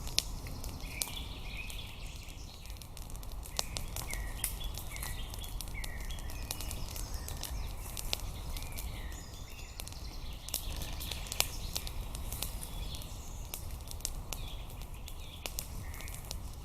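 Small birds chirping with short calls, over a scatter of sharp, irregular clicks and crackles and a low outdoor rumble.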